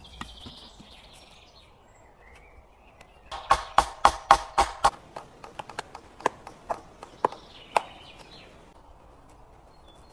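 A series of sharp knocks of something hard striking wood, as in chopping or hammering at camp: a quick run of strokes about three seconds in, then slower single knocks that stop about eight seconds in.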